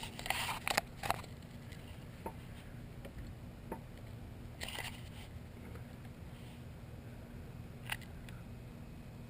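Small clicks and scrapes of a scale model excavator attachment being handled: a cluster of clicks and scratching in the first second, another scratchy rustle about halfway, and a sharp click near the end.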